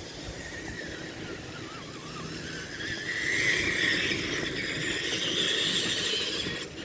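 Tamiya TXT-2 RC monster truck running, its electric drive whining. The whine climbs in pitch and gets louder about halfway through as the truck speeds up, over a rough low rumble.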